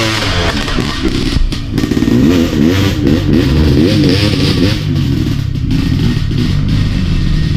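Dirt bike engine revving up and down in quick throttle blips, with a few sharp knocks about a second and a half in.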